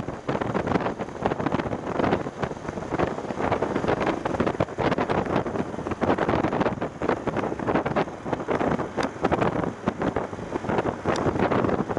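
Heavy wind buffeting on an action camera's microphone from a BMW F750GS motorcycle at riding speed, a rough, uneven rush that swells and dips throughout.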